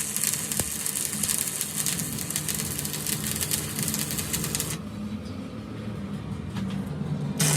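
Workshop machinery running with a low hum under a loud hiss; the hiss cuts off about five seconds in, and sharp knocks start near the end.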